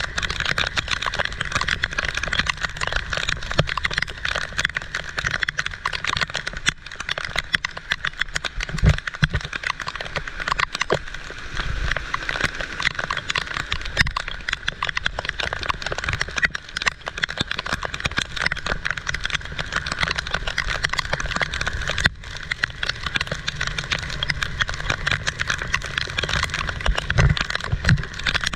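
Heavy tropical downpour: dense, steady rain with a constant rush of drops striking close surfaces, and a few low thuds.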